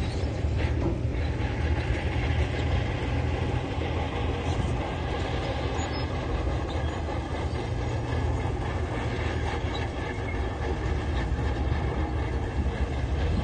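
Diesel engine of a crawler machine running steadily under load, with the clanking rattle of its steel tracks.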